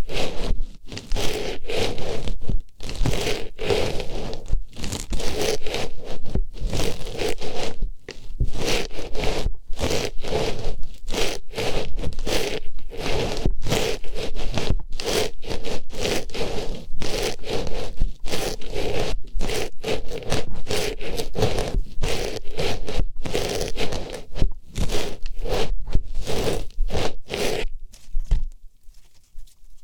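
Artificial rose pushed into and rubbed around the ear of an ASMR microphone: a rapid run of close, scratchy rustling strokes, several a second. It stops shortly before the end.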